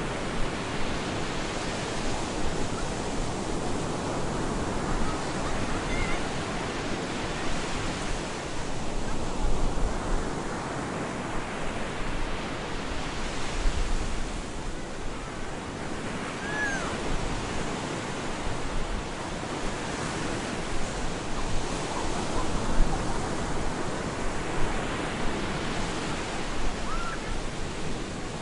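Stormy surf breaking and washing up a beach, a continuous roar of water that swells and falls back every several seconds, with gusts of wind rumbling on the microphone.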